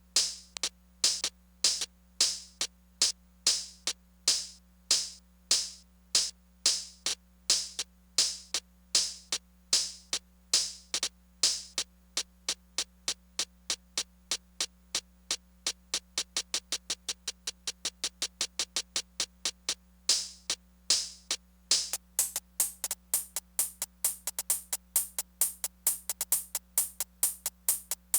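Korg Electribe Sampler ES2 playing a sequenced drum-machine pattern of sharp, bright hits, about two a second. From about halfway the hits come quicker and quieter, grow louder and denser again later, and stop abruptly at the end.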